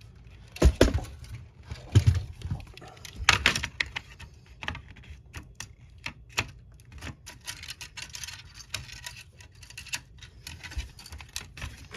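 Small parts and tools handled on a work table: irregular light clicks and taps, with a few louder knocks in the first few seconds.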